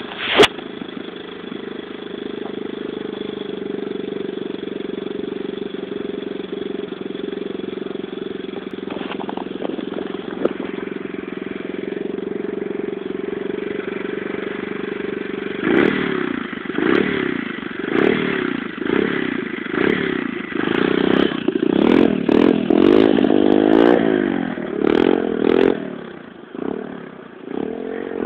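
125cc Torpro pit bike's single-cylinder four-stroke engine running at a steady speed, then revving up and down over and over, about once a second, from about halfway through as the bike is ridden in tight circles, easing off near the end.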